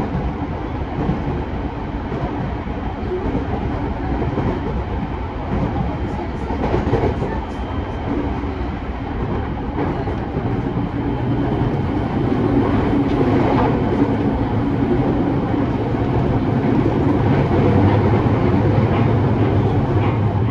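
Interior running noise of a JR East E217-series electric multiple unit travelling along the line: a steady rumble of wheels on rail with a few short clicks, growing louder about twelve seconds in as a low hum strengthens.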